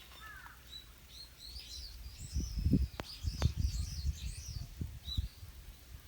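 Small birds chirping and twittering in quick, repeated high calls. Heavy low thumps and rumbles come in the middle, the loudest part, with two sharp clicks about three seconds in.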